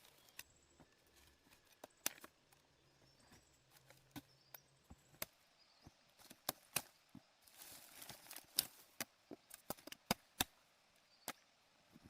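Wood being chopped and snapped: irregular sharp knocks and cracks, with a burst of rustling about eight seconds in.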